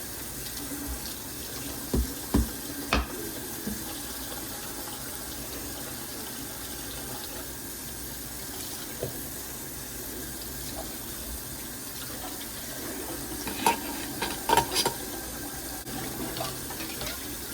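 Water running steadily from a tap into a sink, with a few sharp knocks about two seconds in and again a cluster near the end.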